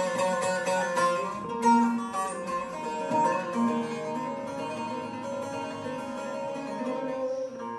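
An improvised melody on a plucked string instrument, its notes ringing on over one another. The strokes come thicker in the first two seconds.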